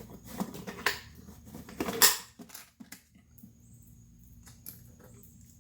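Metal clips and handle parts clicking and clinking as split-ring fasteners are spread open and snapped onto a surface cleaner's handle. A quick run of sharp clicks, the loudest about two seconds in, then only a faint steady hum.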